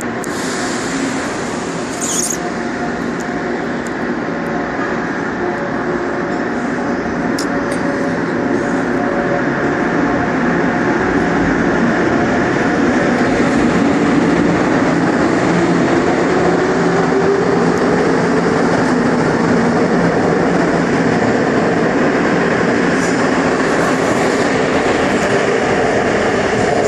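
Seoul Subway Line 2 wide-body GEC chopper-controlled train pulling away from a station: running noise of the wheels on the track, with a motor and chopper whine that rises in pitch as the train gathers speed. The sound grows louder over the first half, then holds steady.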